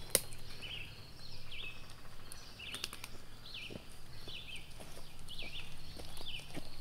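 Birds chirping in woodland, a steady run of short falling notes repeated every half second or so, with a few light clicks and rustles from steps on the leafy path and one sharp click just after the start.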